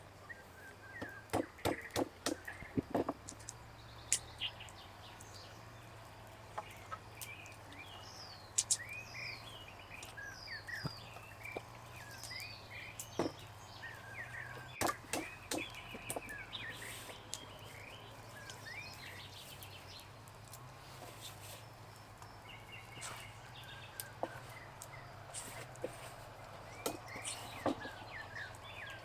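Small birds chirping and twittering on and off throughout, over a steady low hum. There are several sharp knocks or clicks in the first few seconds and a few more later on.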